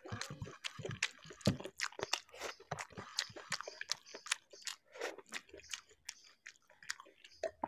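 Close-miked chewing of a mouthful of spicy instant Maggi noodles eaten by hand, with many wet mouth clicks and smacks. The smacks come thick at first and grow sparser toward the end as the mouthful is finished.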